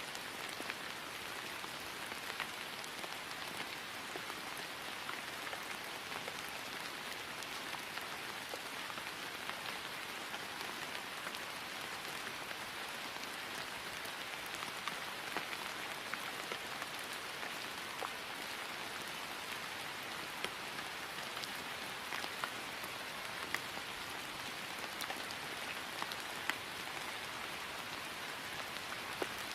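Steady rain falling on grass: an even hiss with scattered sharper drop taps throughout.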